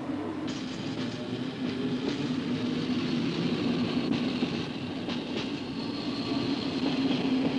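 A train of double-deck car-carrier wagons rolling past: a steady rumble with a low hum and a few wheel clicks over rail joints.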